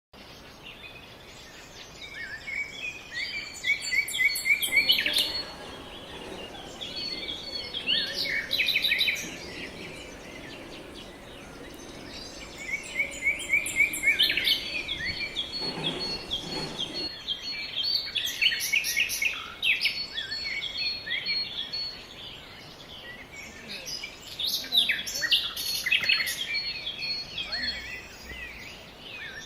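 Songbirds singing and chirping, with overlapping quick trills and chirps that come in bursts of a few seconds each.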